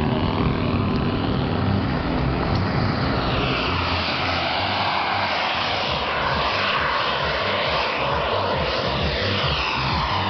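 Small electric motor and propeller of a remote-control foam airplane, whining steadily. From a few seconds in, the whine sweeps up and down in pitch.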